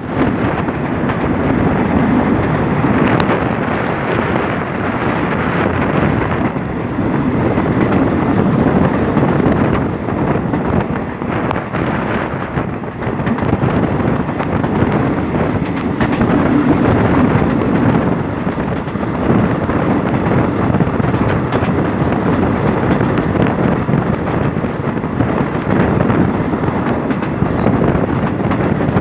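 Express passenger train running steadily, heard from on board: a continuous rush of wheels on the track mixed with wind buffeting the microphone, with an occasional light click from the rails.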